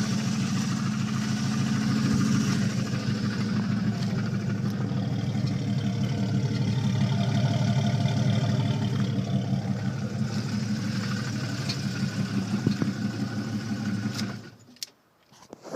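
1989 Jeep Cherokee engine running with a bad rod knock, a rapid knocking under the engine note, then shut off near the end.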